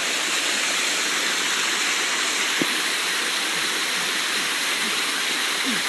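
Waterfall rushing steadily: an even, hissing roar of falling water.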